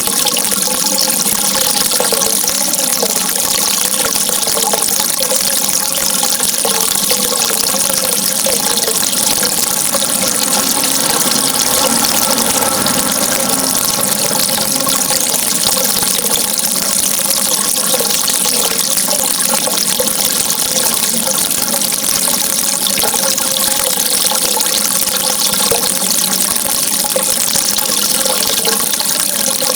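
Running water, a steady rushing hiss that goes on without a break.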